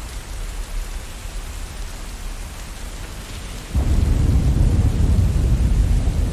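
Steady rain hiss, joined about four seconds in by a sudden low rumble of thunder that keeps rolling on.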